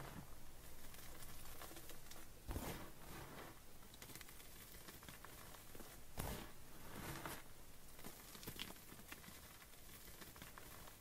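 Blocks of gym chalk crunching and crumbling under the fingers: a fine, dense crackle with sharper crunches about two and a half seconds in and twice more around six to seven seconds in.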